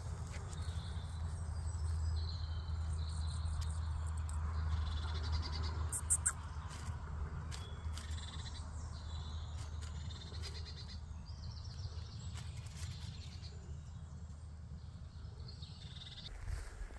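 Small birds singing in short repeated high-pitched phrases over a steady low rumble, with a sharp click about six seconds in.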